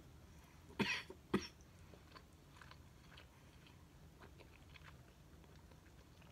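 Close-up chewing of a crispy fried chicken sandwich: two loud crunches about a second in, then quieter, scattered chewing clicks.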